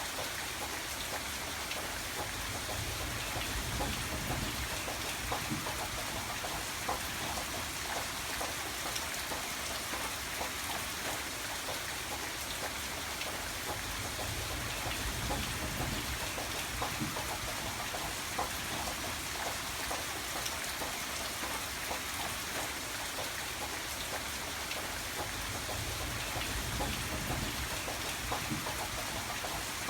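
Steady heavy rain with dense pattering drops. A low rumble swells and fades three times underneath.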